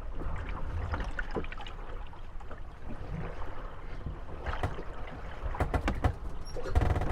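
Moored wooden gondolas rocking in the waves, knocking and creaking against one another, over water sloshing at the hulls. The knocks come in irregular clusters, thickest near the end.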